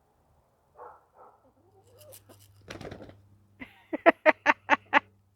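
An animal calling: a quick, even run of about six short, sharp calls near the end, after a brief rustling noise.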